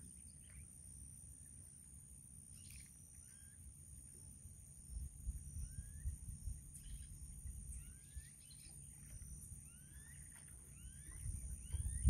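Faint bird calls: short chirps that rise in pitch, scattered at first and coming more often near the end, over a low rumble.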